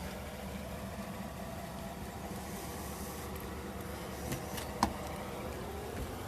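Car engine idling steadily, with one sharp click a little before the end.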